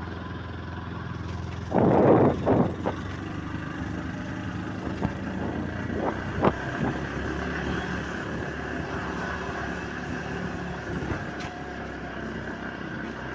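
Motorcycle engine running steadily while riding, heard from the rider's seat. About two seconds in there is a brief loud burst of noise, and a few short knocks follow later on.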